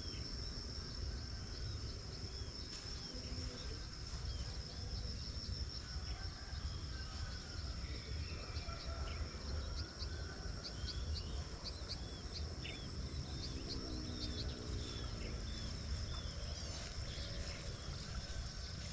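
Rice-field morning ambience: insects singing in steady high tones, with many short bird chirps throughout and a steady low rumble underneath. About two-thirds of the way through comes a brief lower, pitched call.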